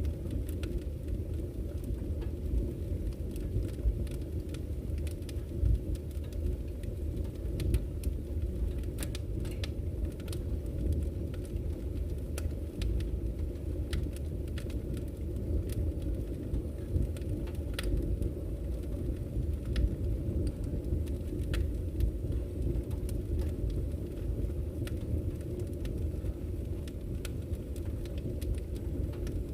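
Wood fire burning in a fireplace: a steady low roar of the flames with frequent sharp crackles and pops from the burning logs.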